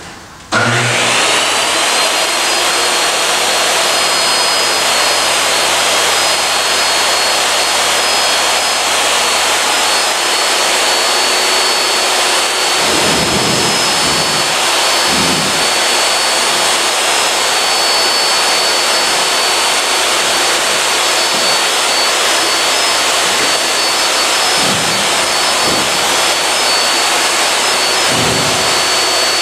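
An electric motor-driven fan machine switches on about half a second in, spins up within a second, and then runs steadily with a high whine over a rush of air. A few faint low thumps come and go under it.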